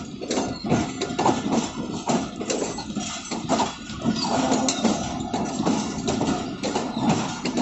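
Passenger train's wheels clattering over rail joints and points as it rolls slowly, a dense, uneven run of knocks and clacks, with a locomotive engine running steadily beneath.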